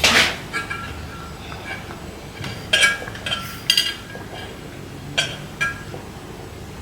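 Glass or ceramic items clinking against each other or on a hard surface: about six short, ringing clinks at uneven intervals.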